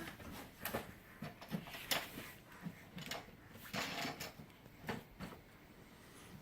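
Toys knocking and clattering as a baby rummages them out of a toy box: a string of irregular light knocks and rattles that thins out near the end.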